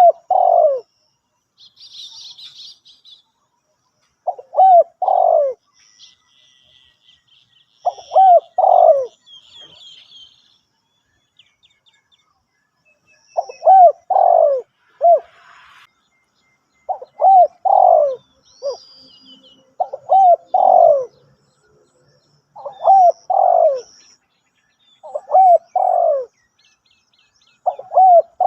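Spotted dove cooing: a short phrase of two or three low, arching notes, repeated about nine times, mostly every three seconds or so. Faint high chirps of small birds sound between the phrases.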